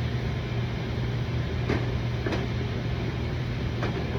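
A steady low machine hum, with three light clicks as parts are handled: one near the middle, one shortly after it and one near the end.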